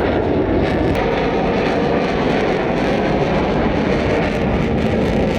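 Display aircraft flying by: loud, steady engine noise.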